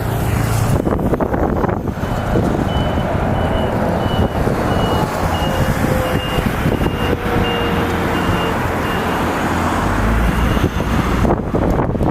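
Strong wind buffeting the microphone, a loud, steady rush. Through most of it a high electronic beep repeats about twice a second.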